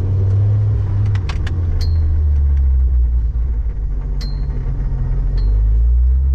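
Cabin drone of a Mk2 Ford Focus ST's turbocharged five-cylinder engine and the road while driving. The low drone shifts in pitch about a second in and again near the end. A few sharp clicks and rattles sound inside the car.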